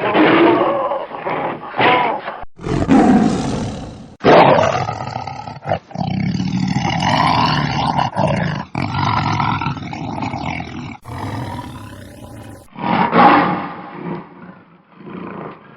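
Lions roaring in a run of loud calls, broken by several abrupt cuts between clips.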